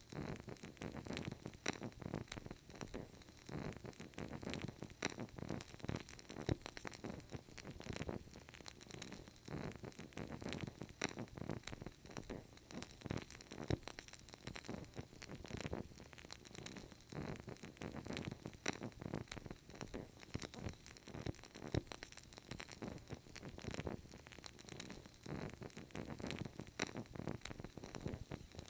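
Burning candle crackling: a dense, irregular run of small pops and ticks that keeps up without a break.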